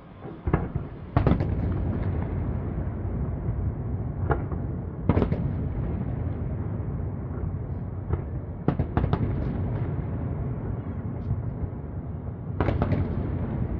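Aerial fireworks shells bursting in the sky: a series of sharp bangs over a continuous low rumble. The louder bangs come about a second in, around five seconds, as a quick cluster around nine seconds, and again near the end.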